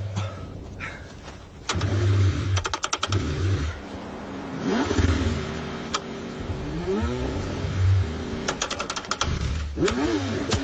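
Car engine being cranked over by its starter in the cold, in several separate bursts with pauses between them.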